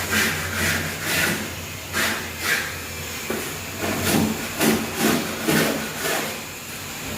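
Repeated rubbing strokes by hand, irregular at roughly two a second, over a steady hiss.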